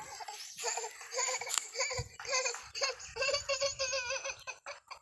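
A baby laughing in a run of short, high-pitched giggles, starting about half a second in and stopping just before the end.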